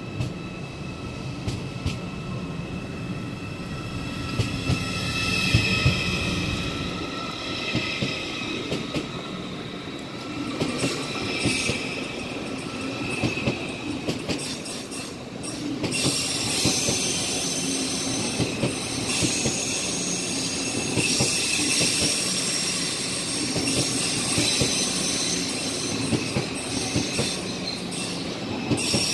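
Deutsche Bahn ICE 4 (BR 812) electric train pulling away and accelerating past. Its electric drive whines, rising in pitch over the first ten seconds or so, and its wheels click over rail joints. From about halfway a loud, high wheel squeal and hiss from the rails takes over.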